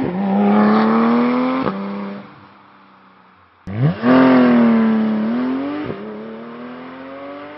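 Sports car engine accelerating hard, its pitch rising, with a gearshift about a second and a half in, then easing off. After a short lull it revs up sharply again, shifts once more near six seconds and keeps pulling.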